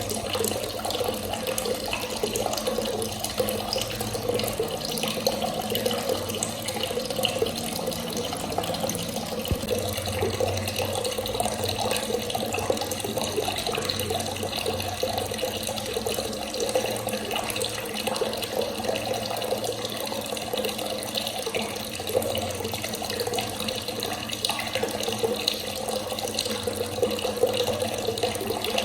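Water running steadily from a tap in a continuous stream, splashing without a break.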